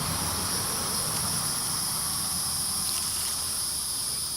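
Steady high-pitched insect chorus, two even shrill bands with no break, over a low rumbling noise.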